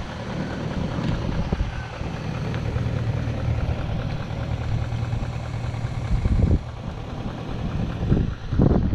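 Car engine idling steadily with a low, even hum, with two brief louder low rumbles near the end.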